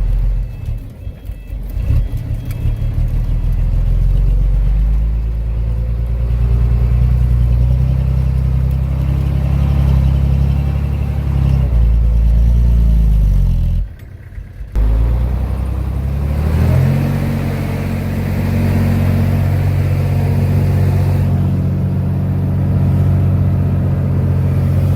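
Heavy-equipment diesel engine running under load, its note falling about halfway through. After a brief sudden gap, it rises again and runs on steadily.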